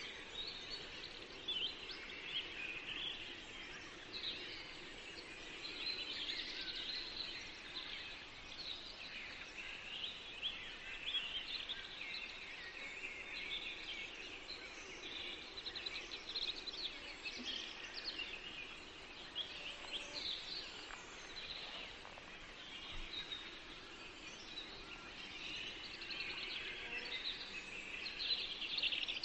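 Several songbirds chirping and singing in a chorus of short, overlapping calls and trills, over a soft steady forest background.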